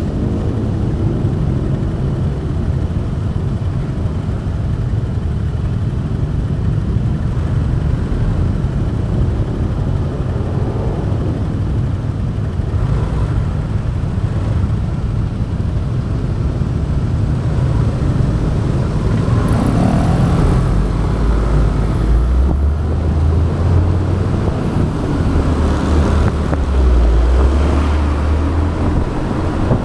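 Motorbike riding along a city road, recorded on an action camera: a steady low rumble of the bike's engine and its movement, which grows louder about two-thirds of the way through.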